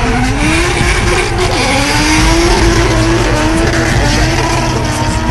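Drift car's engine revving hard, its pitch climbing and dropping with the throttle, while the tyres squeal in a slide, heard from inside the car.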